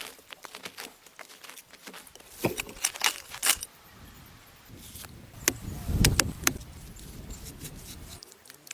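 A series of sharp clicks and knocks, loudest in two clusters about two and a half to three and a half seconds in and around six seconds in, with a low rumble under the second cluster.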